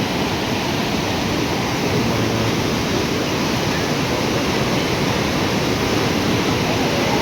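Floodwater rushing in a steady, loud torrent, an overflowing river running through the street.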